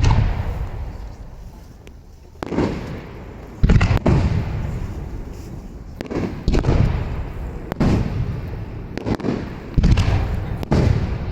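Aerial fireworks shells bursting overhead: about eight loud booms at uneven intervals, each sudden and trailing off in a long rumbling echo.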